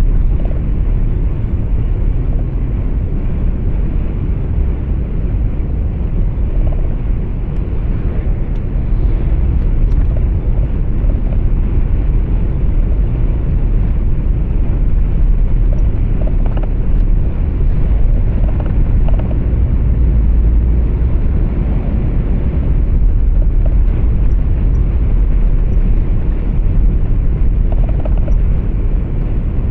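Steady low rumble of road and engine noise heard inside a moving truck's cab.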